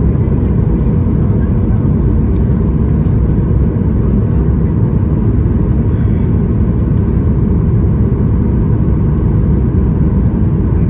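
Steady, loud cabin rumble inside a Boeing 737 MAX 8 airliner: engine and airflow noise that holds unchanged throughout, with a faint steady hum on top.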